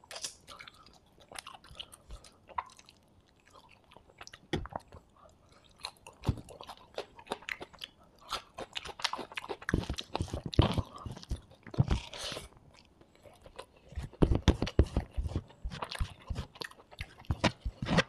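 Close-miked eating sounds: a mouthful of beef fried rice eaten by hand and chewed with irregular wet clicks and crackles, growing louder and denser in the second half.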